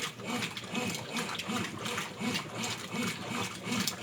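Brastemp 10 kg washing machine running a wash cycle: the motor hum rises and falls in quick repeated strokes, about three a second, with water swishing.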